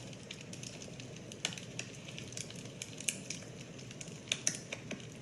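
Wood fire crackling: irregular sharp pops and snaps, several a second, over a steady low hiss, with louder pops near the end.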